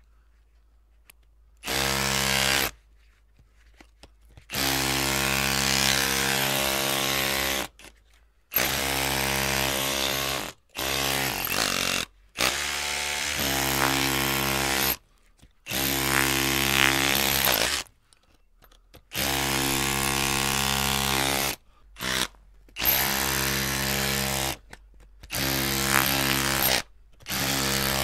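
Electric drill motor run in repeated bursts, the trigger pressed and released about ten times, each run lasting one to three seconds with short silences between.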